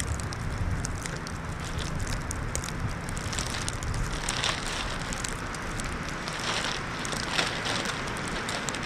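Wind rumbling on the microphone, with crackling and crinkling of a plastic trash bag worn as a body layer, busier in the second half.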